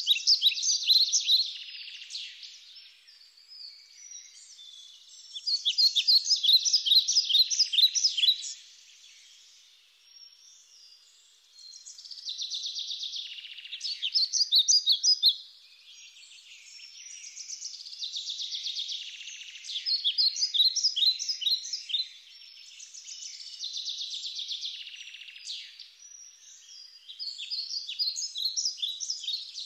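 Songbirds singing: repeated phrases of rapid, high notes, each lasting a few seconds, with short pauses between.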